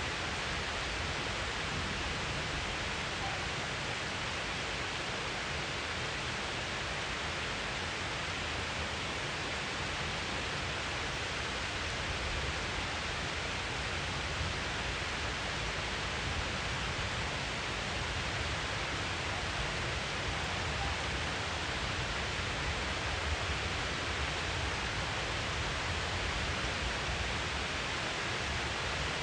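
Heavy rain falling steadily, an even hiss without any single drops or thunder standing out.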